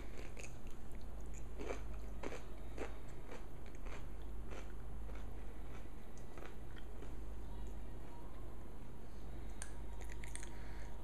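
A little girl biting and chewing a crunchy pickle: a run of crisp crunches about two seconds in, softer chewing after, and a few more crunches near the end.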